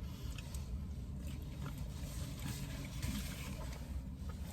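Quiet room noise with a steady low hum and a few faint clicks.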